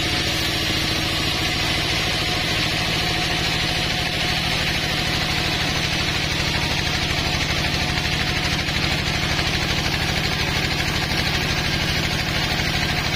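Sawmill engine running steadily with an even rhythm, over a steady hiss.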